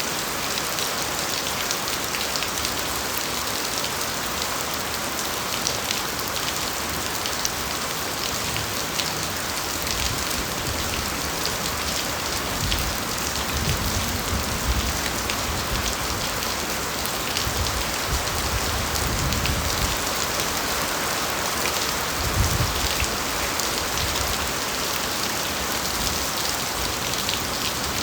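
Steady rain falling on foliage, a dense patter of drops with individual drips ticking through it and a few soft low rumbles swelling and fading in the middle stretch.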